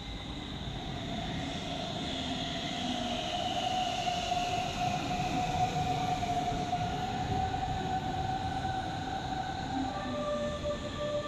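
Hamburg S-Bahn electric train running into the station and slowing along the platform: a rumble of wheels on track with a steady electric whine, and a higher whine that drops in pitch as the train slows.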